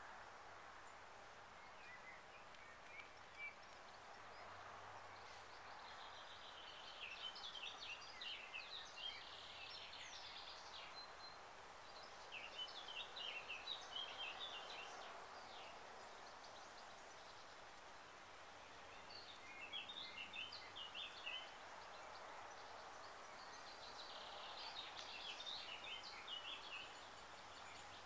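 Faint songbird song: four phrases of rapid, high chirping notes a few seconds apart, over a steady outdoor background hiss.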